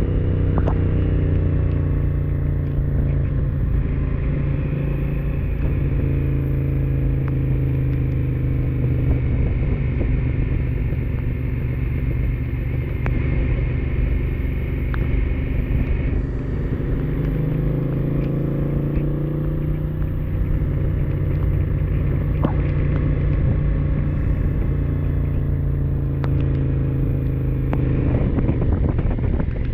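Honda Africa Twin's twin-cylinder engine running on a downhill ride, its note falling and rising a couple of times as speed changes. Steady wind and tyre hiss from the wet road run underneath.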